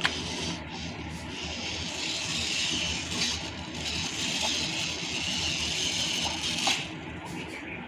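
Small electric motor and gearbox of a homemade RC toy tractor running steadily, with a sharp click at the start and another near the end.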